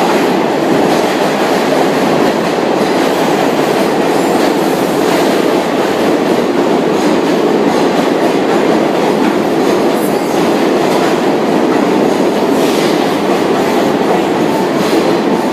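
Train running on rails: a loud, steady rumble and rattle of wheels on track.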